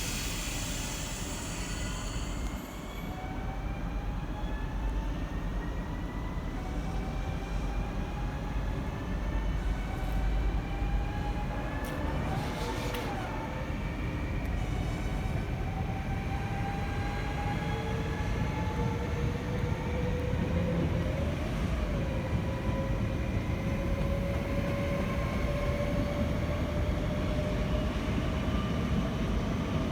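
A train pulling away over a steady low rumble, its motors whining in several tones that rise slowly in pitch as it gathers speed. A brief high hiss fades in the first couple of seconds.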